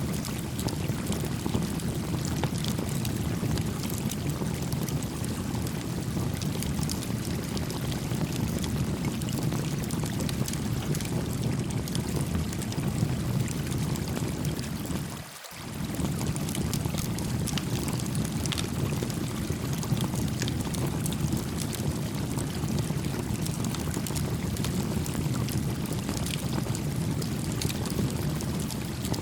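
A small campfire crackling with scattered sharp pops over the steady low rush of a gently flowing creek. About halfway through, the water sound briefly dips and comes back.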